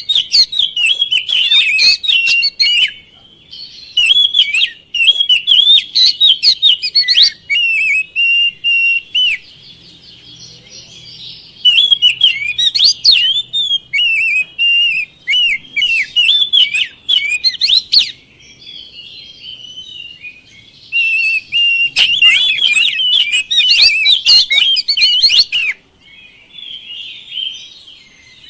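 Oriental magpie-robin (kacer) singing in full song: loud, rapid, varied phrases of whistles and sweeping notes, including a run of quickly repeated high notes. The song comes in bursts of a few seconds, with short pauses between them.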